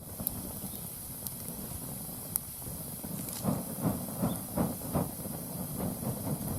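Wood fire burning in a round fire pit: a steady hiss with a few sharp crackles. From about halfway, irregular low fluttering puffs come in.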